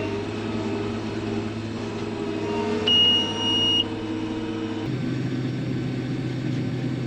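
Farm machinery engine running steadily, with its note shifting slightly about five seconds in. About three seconds in, a single electronic warning beep sounds for about a second.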